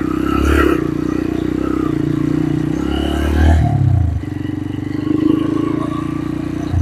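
Small motorcycle engine running under way, its revs rising briefly about three and a half seconds in, then easing off.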